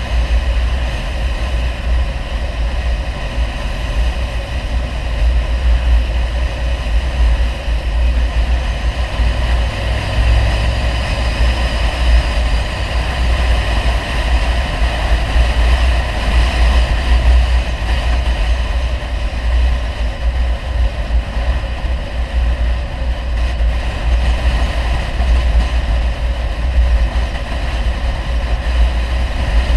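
Audi 100 2.3 quattro with a CAC aftermarket exhaust driving at a steady pace, heard from inside the car: a steady, heavy low drone of its five-cylinder engine and exhaust mixed with road noise.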